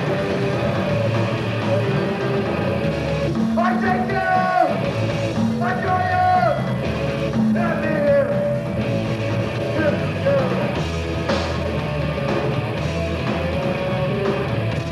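Punk rock band playing live, with guitar throughout and held sung vocal lines from about three to eight seconds in.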